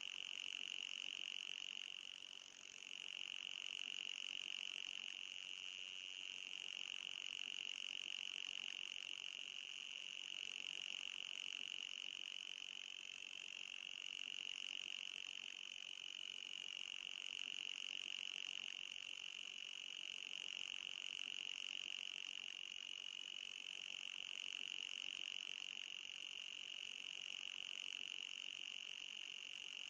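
Electronic anti-mosquito repellent tone: a continuous high-pitched tone that wavers slightly in pitch, with a brief dip in level about two and a half seconds in.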